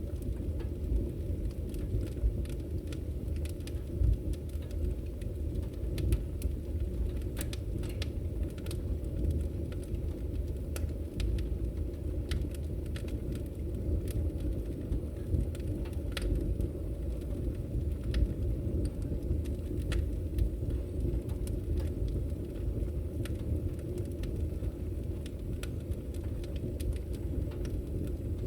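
Firewood burning: a steady low rumble of the fire with scattered sharp crackles and pops from the wood.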